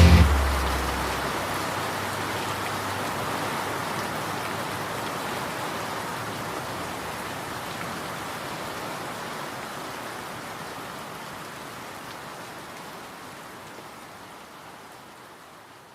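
Steady rain falling, an even hiss of drops that slowly fades out.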